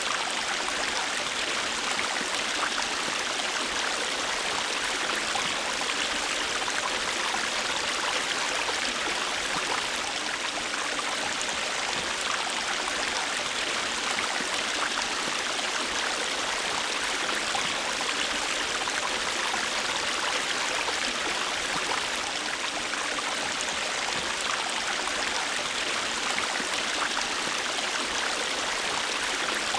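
River water flowing and splashing over rocks in a steady, even rush.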